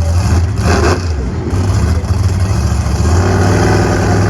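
Monster truck engine running loud and steady, with a short rush of noise a little under a second in.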